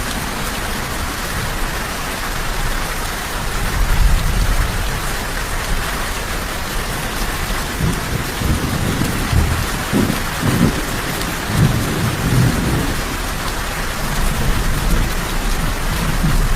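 Steady rain falling hard on a surface, with low rolling rumbles of thunder from about eight to thirteen seconds in.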